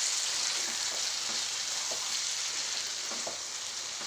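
Chicken sizzling in its spiced gravy in the pan as it is stirred, a steady hiss with a few soft knocks of the spoon.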